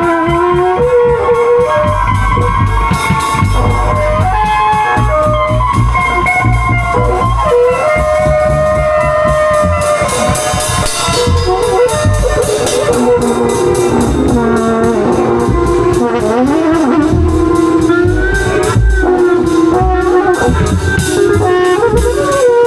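Live improvised jazz-style jam: a horn plays a wandering melodic line over a walking low bass line and a steady drum beat.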